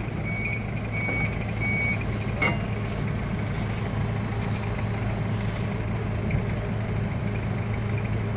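A vehicle engine idling steadily, with a few short high-pitched beeps during the first two seconds and a single click about two and a half seconds in.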